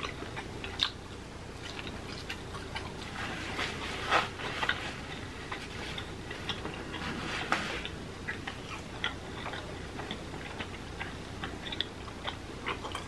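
A person chewing a mouthful of steak close to the microphone: a steady run of small wet mouth clicks and smacks, with a few louder ones about four seconds in and again past halfway.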